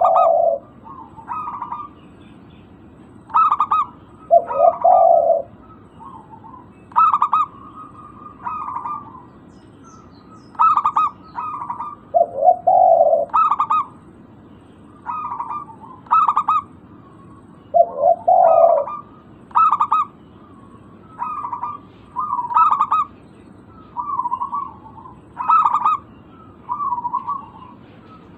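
Zebra doves cooing: short, rapid, stuttering coos repeated every second or two, with a lower, fuller coo four times.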